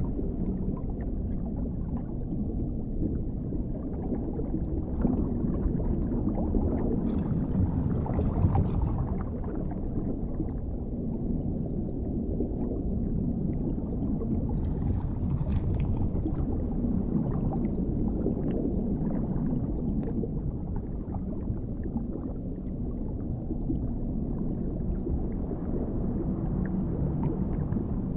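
Dark underwater ambience: a steady, deep, muffled rumble like being submerged, with faint higher gurgles rising out of it now and then.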